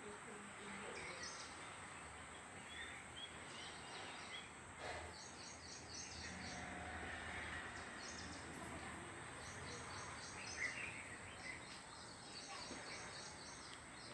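Small birds chirping and twittering in quick repeated bursts of short, high notes over a steady background hiss.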